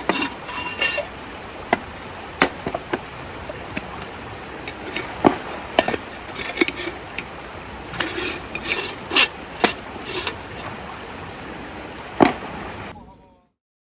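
Irregular clicks and knocks of objects being handled, over a steady background hiss, with a sharper knock about twelve seconds in. The sound cuts off about a second before the end.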